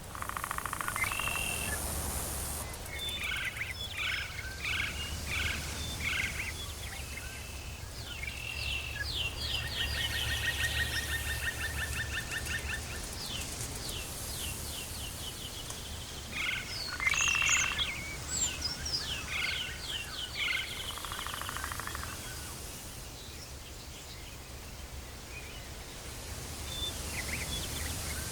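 Tropical forest ambience: a steady low rumble and high hiss under runs of short, repeated chirping calls and a fast trill from forest animals, busiest in the first two thirds.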